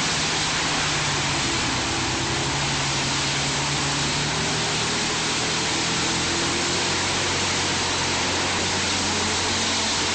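Wood chipper running, its engine drone under a steady, loud rush of noise.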